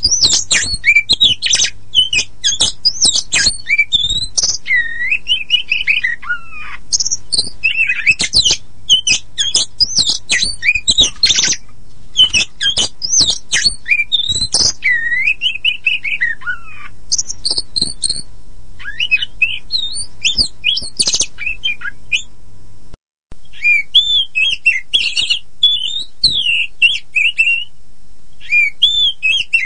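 Oriental magpie-robin (kacer poci) singing continuously: a fast, varied stream of whistles, slurred notes and chattering phrases, with one brief break to silence about two-thirds of the way through.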